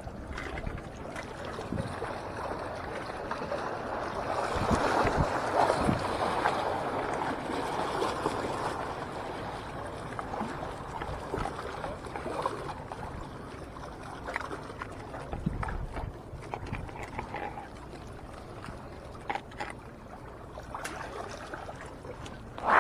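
Sea water sloshing and washing, swelling for a few seconds, with a few small knocks.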